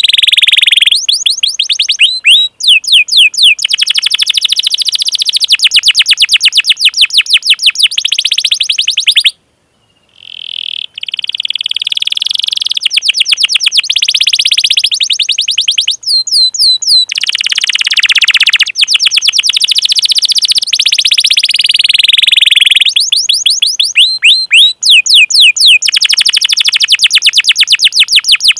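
Canary singing long rolling trills of rapid, repeated high 'cuit cuit' chirps, with a brief break about ten seconds in.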